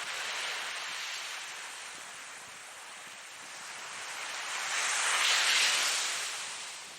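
Ocean waves washing in: one gentle swell of surf at the start, then a louder wave rising to a peak about five seconds in and fading away.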